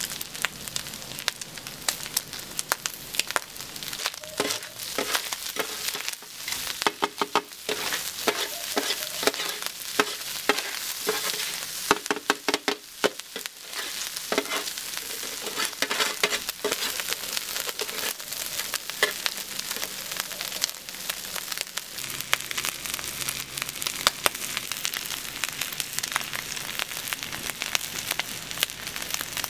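Minced beef sizzling in ghee on a tawa while two metal spatulas chop and scrape through it, with rapid clacks of the blades against the pan. The clatter is thickest through the first half; the sizzle holds steady throughout.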